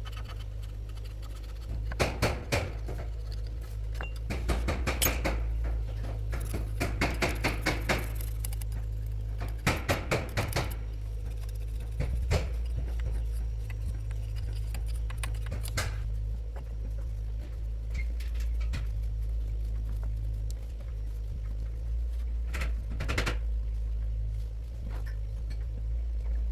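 Hand tools and metal parts clinking and tapping against each other in irregular bursts of short knocks, over a steady low hum.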